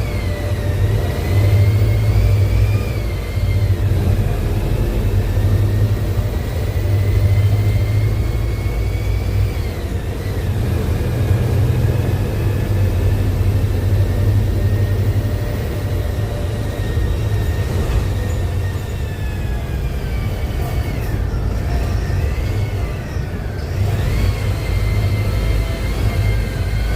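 Mercedes-Benz OF-1721L BlueTec 6 diesel bus engine running under way, a steady low rumble with a higher whine that rises and falls as the bus speeds up and slows.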